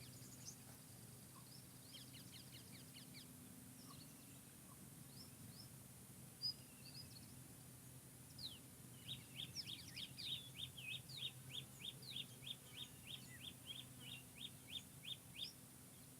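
Songbirds chirping in forest ambience, scattered short calls at first. From about nine seconds in, a bird gives a rapid run of short downward chirps, about three a second, for several seconds. A faint steady low hum sits underneath.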